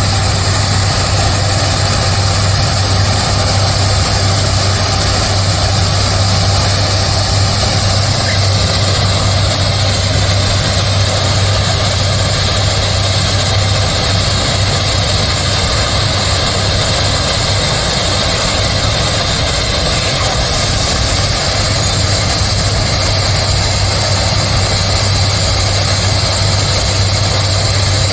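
Heavy engine running steadily: a constant low drone with a high hiss above it, holding even throughout.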